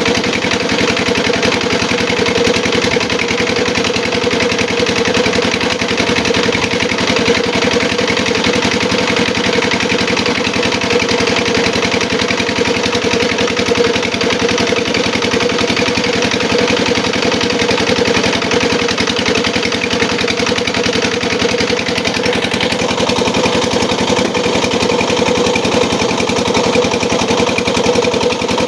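Home-built gambir-leaf grinding machine running steadily under engine power, a loud, even mechanical drone with no change in speed.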